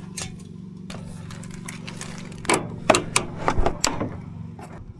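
Scattered clicks and knocks of hoses and fittings being handled while a portable propane water heater is hooked up, over a steady low hum. The sharpest knocks come near the middle.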